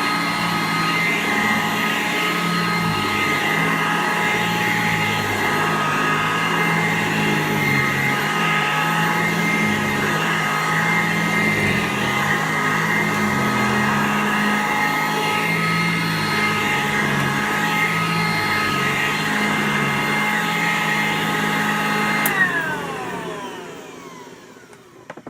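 Sanitaire SC887 upright vacuum running steadily on carpet, with a hum that shifts in pitch as it is worked over the pile. It is switched off with a click about 22 seconds in, and its motor winds down.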